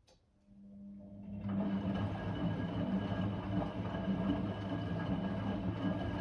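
Blomberg WA391 washing machine starting up after a pause: a click, then a motor hum that builds over about a second and a half into steady mechanical running.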